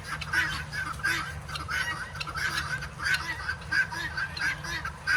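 A flock of guinea fowl calling: a run of harsh, rasping calls repeated about one and a half times a second.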